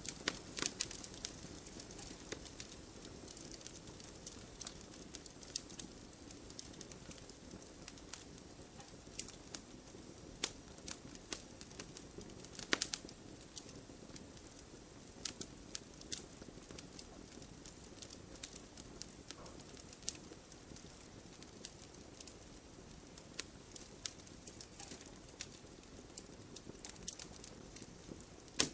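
Wood campfire crackling, with sharp pops at irregular intervals over a low, steady rush of burning.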